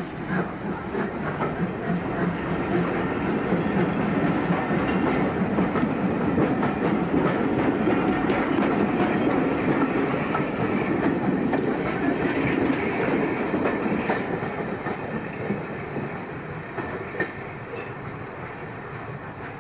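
Passenger coaches of a departing steam-hauled train rolling past, the wheels running over the rails. The sound builds, then fades over the last few seconds as the last coach pulls away.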